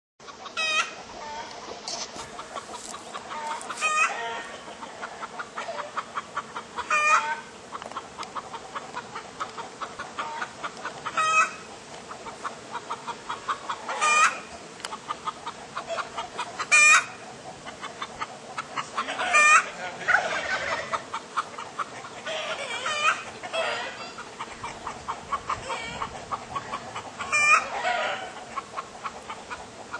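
Poultry clucking and calling, with a loud, sharp call about every three seconds over steady chatter from the flock.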